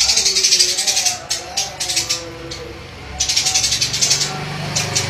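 Songbird giving fast, buzzing, rattling chatter in bursts of about a second, three or four times, as on a masteran training recording.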